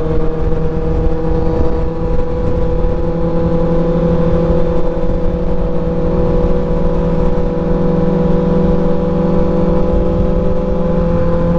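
Motorcycle engine running at a steady cruising speed, its drone holding one pitch throughout. Rough, buffeting wind noise sits underneath it on the helmet camera's microphone.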